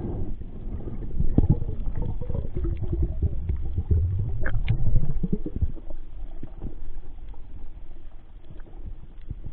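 Muffled underwater rumbling and gurgling of water moving past the camera, with scattered small clicks and knocks; it swells around the middle and eases off toward the end.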